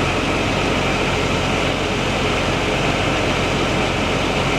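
Tractor engine running steadily: an even drone with a hiss on top.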